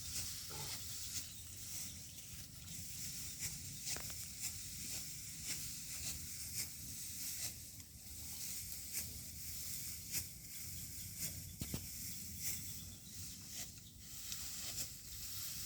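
Dry rice stalks rustling and crackling as they are harvested by hand, irregular crisp snaps over a steady hiss, with a low wind rumble on the microphone.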